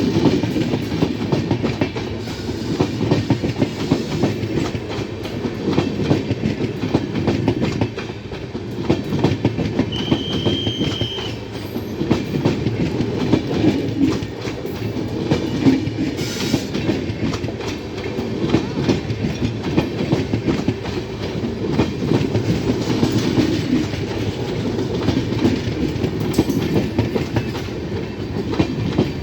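Express passenger train's wheels clattering steadily over the rail joints at speed, with a brief high whine about ten seconds in.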